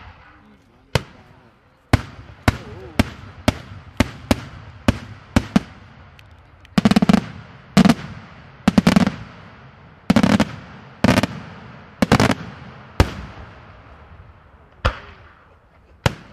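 Daytime aerial fireworks shells bursting in a rapid series of sharp bangs, about twenty in all, each one trailing off. In the middle the bangs come thicker, as clusters of several reports each, then thin out toward the end.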